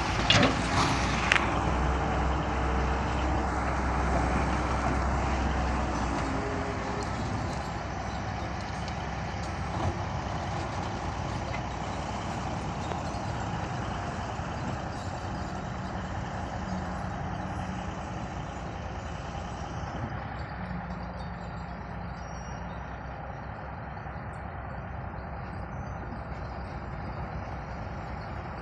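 Heavy machine, such as an excavator, running steadily, with a few sharp knocks near the start; it grows a little quieter after about six seconds.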